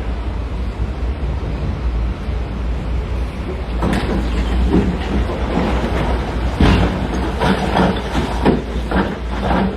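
Heavy diesel earthmoving machine's engine running with a steady low rumble. About four seconds in, rock starts knocking and clattering against steel in a string of loud irregular impacts, as quarry rock is loaded.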